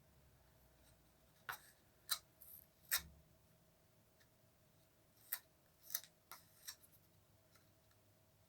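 A butter knife working peanut butter from the jar onto a cardboard toilet roll: short, sharp clicks and scrapes, a few about two seconds in and another few around six seconds, over a faint steady hum.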